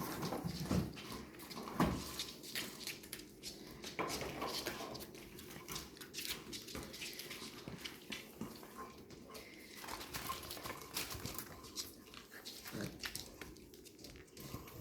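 Labrador puppies moving about, with scattered short clicks and scuffs and a few brief squeaky whimpers.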